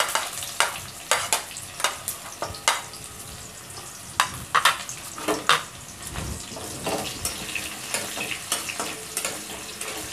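Chopped onion sizzling in hot oil in a kadai, stirred with a steady frying hiss and sharp, irregular scrapes and clicks of the spatula against the pan.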